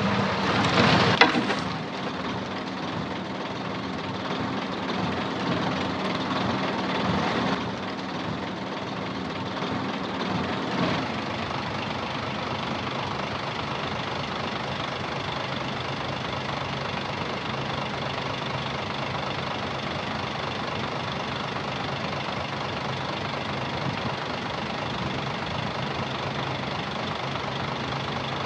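Heavy diesel engine of the earthmoving machinery, loud in the first second or two, then running with a changing note until about ten seconds in, after which it settles to a steady idle.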